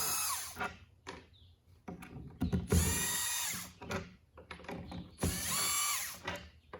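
Power drill backing screws out of wood, run in three short bursts of about a second each, with small clicks and knocks between them.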